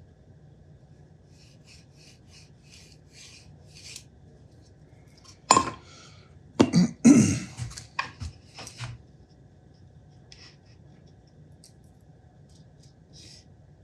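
Tools and small hard parts handled on a workbench: a run of light scratching strokes, then a burst of sharp knocks and clatter a little past halfway.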